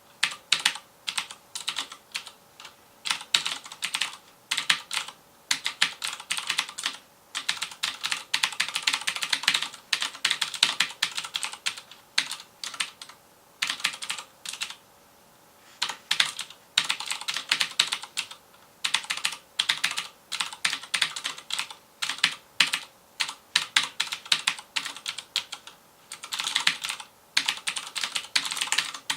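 Fast typing on a FILCO Majestouch Convertible 2 mechanical keyboard with Cherry MX Blue switches: rapid runs of clicky keystrokes in bursts, with a short pause about halfway through.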